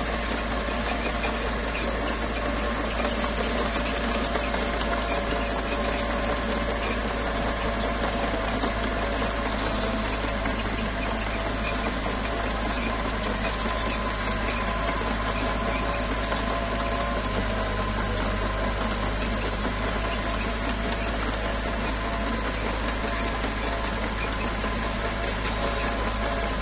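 Small bulldozer's engine running steadily, an even mechanical drone that holds the same level throughout.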